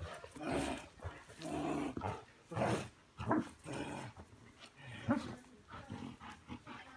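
Belgian Malinois growling during bite work, in short irregular bursts about once a second.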